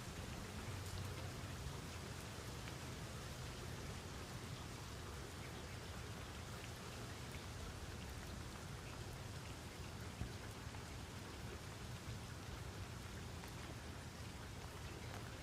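Steady rain falling, a continuous hiss with scattered faint drop ticks and a low rumble underneath.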